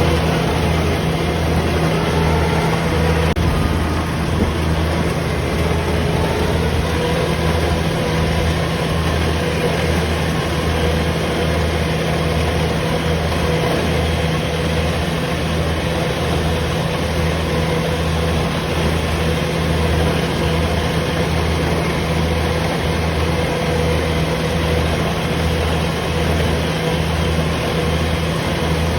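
Rice combine harvester running steadily, a loud constant engine hum with a regular low pulsing throb.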